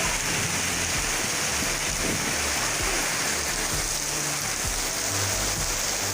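Heavy rain pouring down steadily in strong wind: a dense, even hiss, with low, uneven rumbling from the wind.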